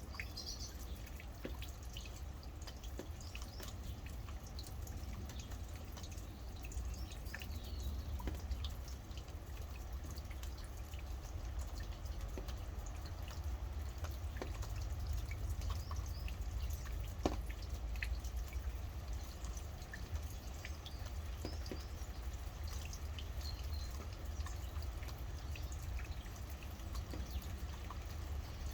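Rain dripping: scattered individual drops hitting, irregular and unhurried, over a low steady rumble, with a few faint bird chirps now and then.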